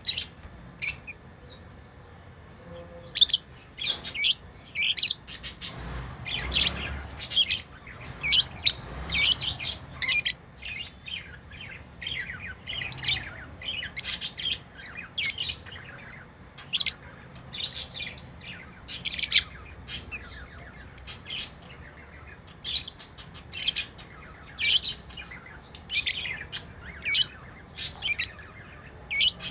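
Pet lovebirds chirping: short, sharp, high-pitched calls in quick irregular runs, often several a second, with only brief gaps.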